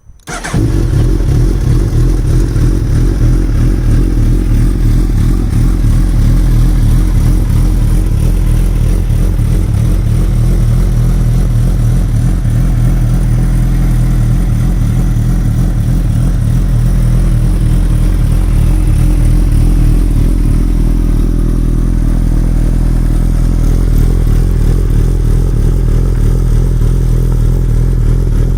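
2021 Suzuki Hayabusa's 1340 cc inline-four engine running through its exhaust. The sound comes in abruptly at the start, then holds a steady idle with no revving.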